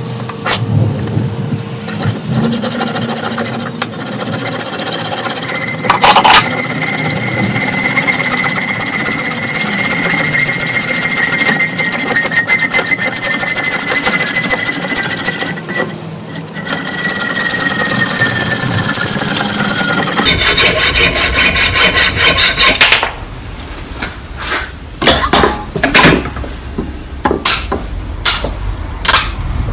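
Electric rotary power tool grinding or sanding against a workpiece, with a steady high whine that drops as the tool winds down about twenty seconds in. After that come a series of sharp taps and knocks.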